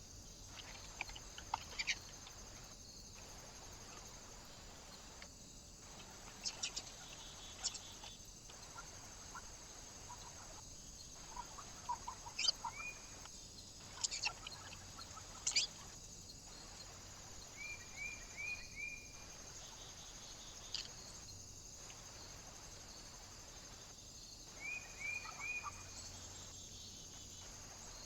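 Small birds at a feeder calling, with short high chirps and thin notes, some in quick runs of three or four rising notes, and a few sharp ticks among them.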